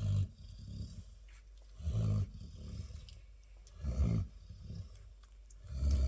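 Labrador retriever snoring in its sleep: four short, loud, deep snores about two seconds apart.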